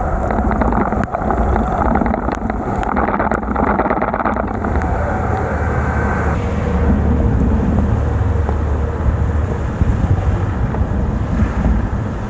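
Wind rushing over the microphone of a bicycle-mounted camera while riding on a rain-soaked road, with the hiss of wet road noise underneath; a few sharp clicks between two and five seconds in.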